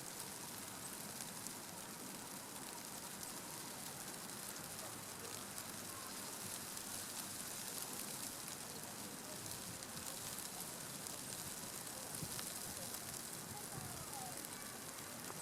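Steady outdoor hiss with a fine crackling patter throughout. A couple of faint short bird chirps come near the end.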